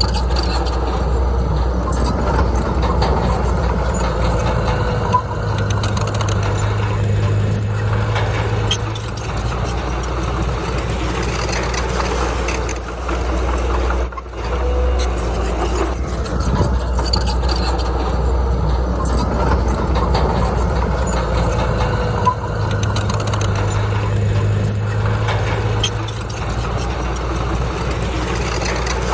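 Heavy diesel earthmoving machinery running steadily, its engine note getting stronger for a few seconds twice as it works under load.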